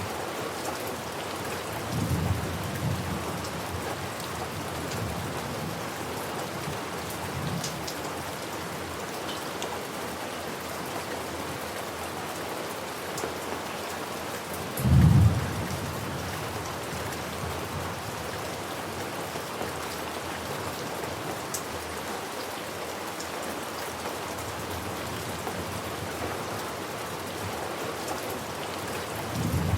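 Steady rain falling on a surface, with thunder rumbling about two seconds in, a short, louder clap of thunder about halfway through, and another rumble near the end.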